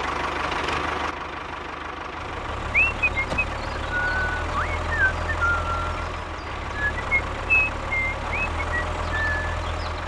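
A mini model tractor's small motor running with a steady low hum. Birds chirp in short whistles and quick rising notes over it through the middle.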